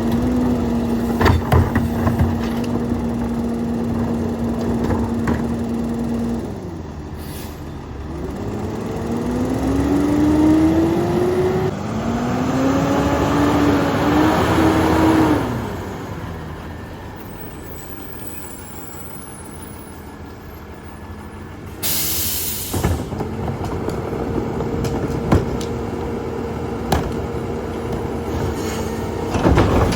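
Peterbilt 348 rear-loader garbage truck working: the engine and packer hydraulics hold a steady drone, then the engine revs up twice and drops back to a lower idle. About 22 seconds in there is a short, sharp hiss of released air, and the steady drone returns.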